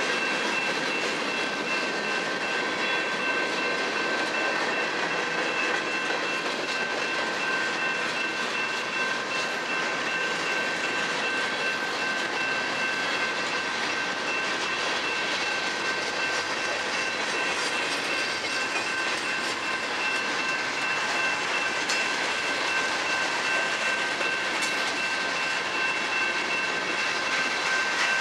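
Freight cars of a manifest train rolling past: a steady rumble and rattle of steel wheels on the rails, with a constant high ringing tone running through it.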